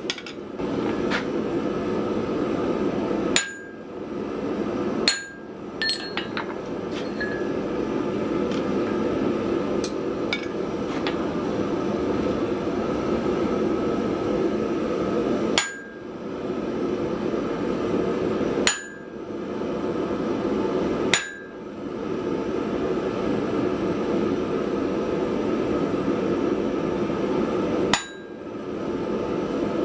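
Six single hammer blows on steel, spread irregularly, each a sharp clang with a brief metallic ring, over a steady rushing noise.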